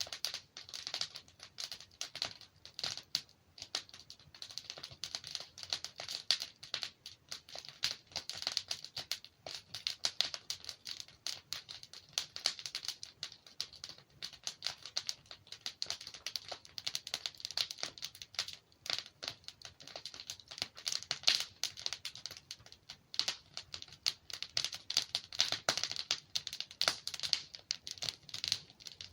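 Burning logs in a fireplace crackling and popping: a dense, continuous patter of small sharp snaps, with a louder pop about 21 seconds in.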